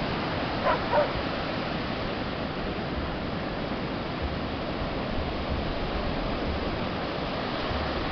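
Steady wash of surf and wind on a beach, with two short dog barks close together about a second in.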